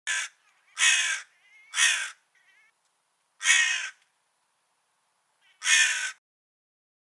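Crow cawing: five harsh caws, the first three about a second apart, then two more with longer gaps between. Faint, softer calls come between the second and third caws and just after the third.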